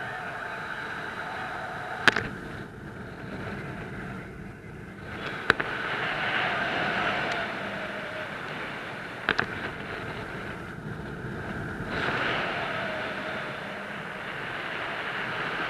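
Airflow rushing over the microphone of a paraglider in flight, surging and easing, with three sharp clicks: about two seconds in, at five and a half seconds, and a quick double click past nine seconds.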